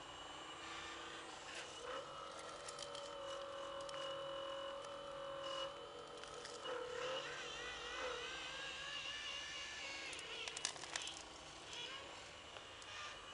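Electric motors and hydraulics of radio-controlled scale construction models whining, the pitch holding steady and then gliding up and down as the machines move. A short cluster of clicks and knocks comes about ten seconds in.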